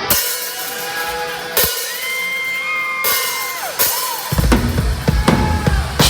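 Live metal band playing loud: a few separate drum and cymbal hits under held notes that bend in pitch, then about four seconds in the full band comes in with heavy kick drum and bass.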